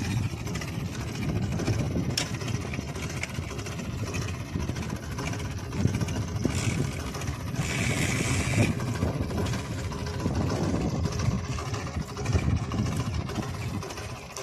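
Belarus 510 tractor's diesel engine running with a steady, rough low rumble. A brief hiss comes about eight seconds in, and there is a sharp click near the start.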